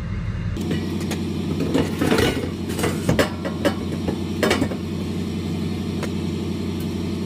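Diesel truck engine running steadily, with several sharp metallic clanks and rattles over the first few seconds.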